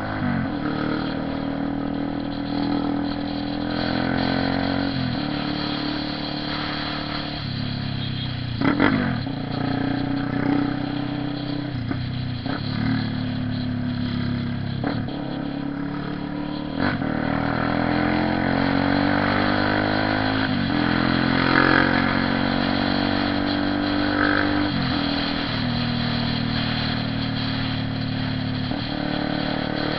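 Honda CB 300R single-cylinder motorcycle engine running under way. Its pitch climbs and then drops every few seconds as it accelerates and shifts gear, with a few brief louder spikes.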